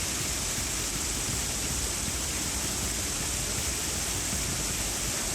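Steady rush of water with a strong hiss, even and unchanging throughout.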